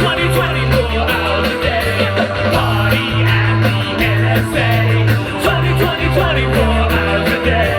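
Live band playing a rock song: a repeating bass line of long held notes under a fast, steady beat of hi-hat ticks.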